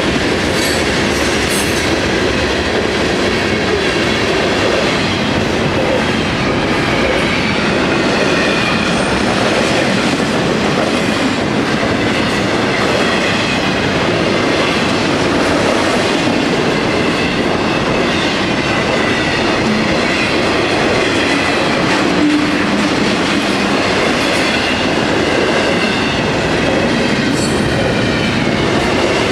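Florida East Coast freight train's hopper cars and double-stack container well cars rolling past: a steady rumble with the clickety-clack of wheels over rail joints and a thin, wavering wheel squeal at times.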